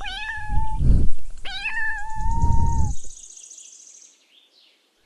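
Kitten meowing twice, high-pitched, the second meow longer and held, with low rumbling noise underneath; the meows stop about three seconds in.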